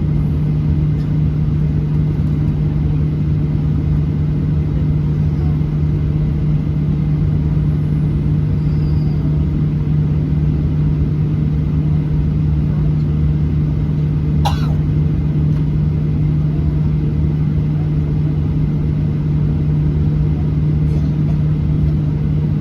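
Steady low drone inside the cabin of a Boeing 737-800 airliner, a constant hum with no rise in pitch or loudness. A brief faint high click sounds about two-thirds of the way through.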